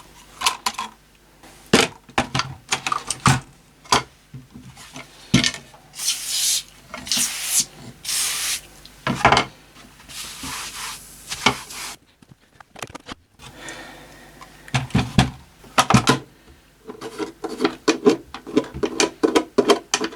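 Hand-cleaning of radio parts: repeated rubbing and scrubbing strokes, with a few longer hissy scrubbing passes in the middle, among many small clicks and knocks of parts being handled and set down.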